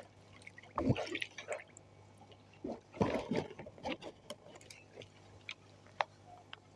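Water splashing and dripping in irregular bursts, loudest about a second in and again about three seconds in, with scattered sharp clicks between.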